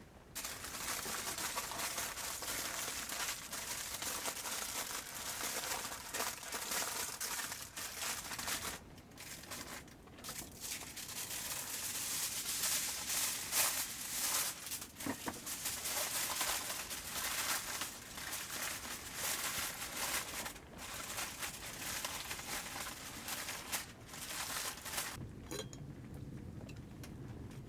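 Crinkling, rustling sound of material being handled, going on and off with short pauses, then fading to a quieter background about 25 seconds in.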